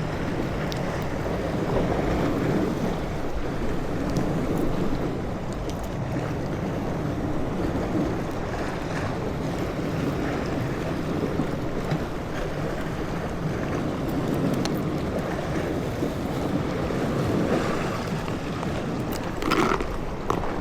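Wind blowing on the microphone over washing sea water, a steady rush that swells and eases every few seconds. A short, louder noise breaks in near the end.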